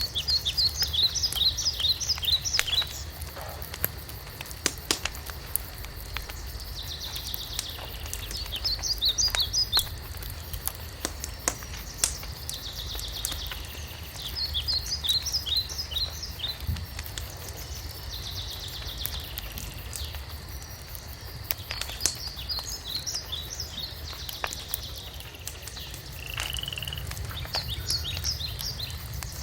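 Wood fire crackling with scattered sharp pops. Every few seconds a rapid run of high chirping calls breaks in, each run lasting about two to three seconds.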